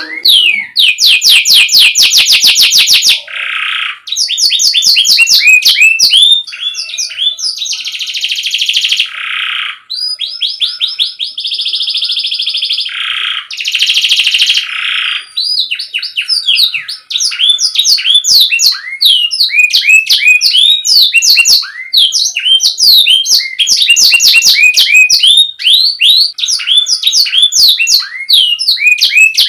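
Domestic canary singing a long continuous song of fast trills: rapid strings of repeated sweeping notes alternate with dense buzzing rolls, a recording of the kind used as a master for young canaries to learn from.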